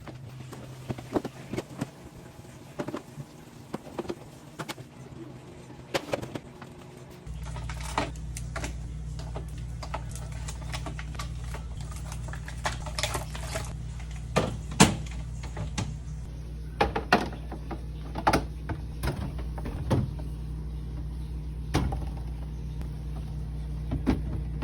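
Groceries and containers being set into a refrigerator: a string of scattered clicks, knocks and clatters. A steady low hum starts about seven seconds in.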